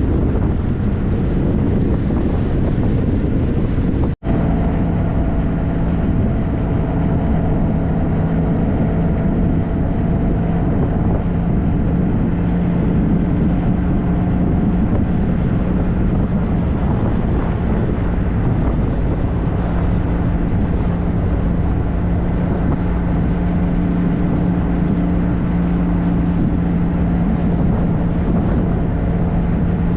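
2013 Triumph Trophy SE's 1215 cc inline-triple engine running at a steady cruise, with wind and road noise mixed in. The sound cuts out for an instant about four seconds in.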